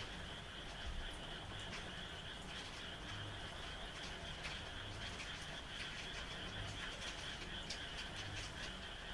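Frogs croaking at night, a low croak repeating about every second and a half over a steady high-pitched trill, with rain falling as a soft hiss and scattered drop ticks.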